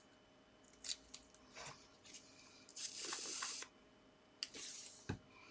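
Small handling sounds of papercraft as a foam adhesive pad is fitted to a paper star: a few light clicks and taps, and a brief scratchy rustle about three seconds in.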